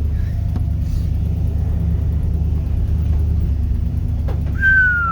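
Steady low rumble of a pickup truck driving, heard from inside the cab. Near the end a loud, high whistle-like tone starts and slides down in pitch for about a second and a half.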